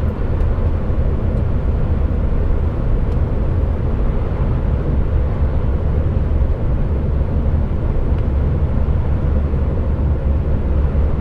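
Steady low rumble of an HGV container truck's diesel engine and tyre noise, heard from inside the cab while driving at road speed.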